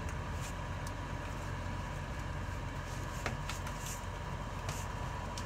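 Steady low rumble with a few faint clicks and taps as the plastic wiring connector is pushed back onto the fuel pump flow control module.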